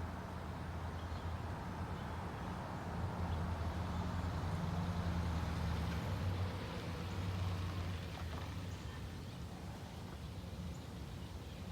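Exhaust of a 2018 Subaru Forester's 2.5-litre flat-four, fitted with aftermarket headers and a muffler delete, running as a steady low drone. It grows louder about three seconds in and eases off again around eight seconds.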